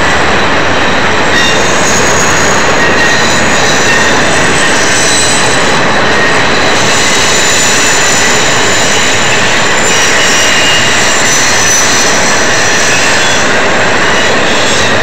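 Union Pacific intermodal train's double-stack container cars rolling past close by, a loud steady rush of wheels on rail with thin high squeals from the wheels coming and going.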